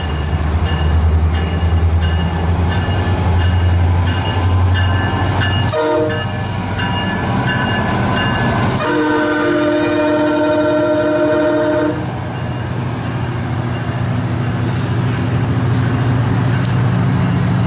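MARC commuter train passing close by. The diesel locomotive's engine drones loudly as it goes by, and its horn gives a short toot about six seconds in, then a long blast of several notes at once from about nine to twelve seconds. After that the bilevel passenger coaches rumble past on the rails.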